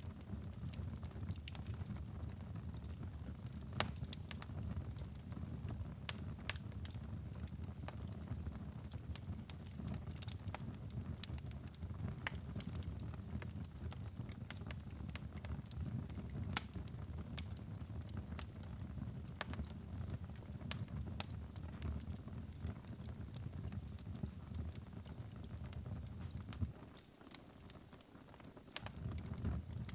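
Wood fire burning in a fireplace, crackling with frequent irregular sharp pops over a steady low rumble of the flames. The rumble drops away for a moment near the end, and the crackling goes on.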